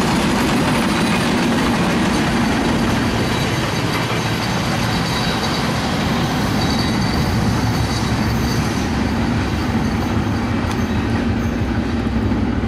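Passenger train coaches rolling along the rails with a steady rumble of wheels on track. A faint high wheel squeal comes in about midway.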